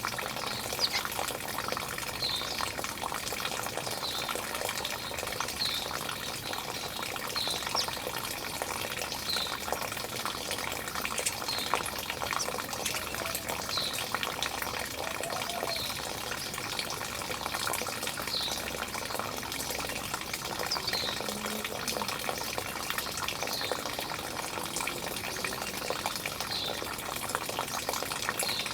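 Running water splashing and gushing steadily. Over it, a bird gives a short high chirp again and again, about every second and a half to two seconds.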